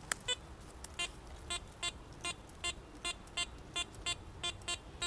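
Metal detector sounding a short, repeated beep, about two to three a second, signalling a buried metal target under the coil.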